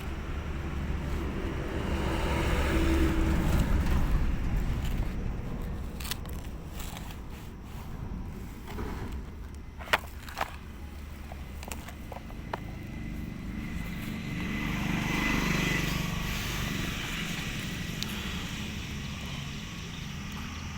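A motor running with a steady low hum, swelling louder and fading away twice. Two sharp clicks come close together about halfway through.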